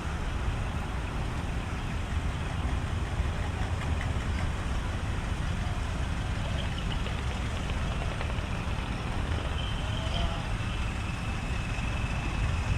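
Decorated truck's diesel engine idling with a steady low rumble, and a faint high whine joining near the end.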